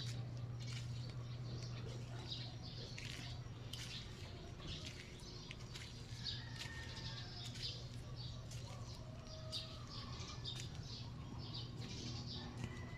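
Birds chirping: many short, high chirps with a few longer whistled notes, over a steady low hum.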